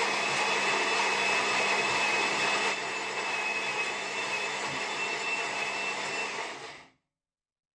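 Espresso machine running as it brews an espresso: a steady mechanical drone with a thin high whine, a little quieter about three seconds in, cutting off suddenly near the end.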